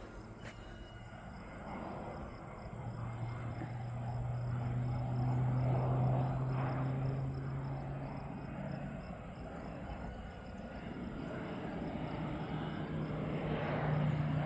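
Low-flying crop-spraying airplane's engine and propeller drone, growing louder to a peak about six seconds in, easing off around ten seconds, then rising again near the end as the plane comes back around.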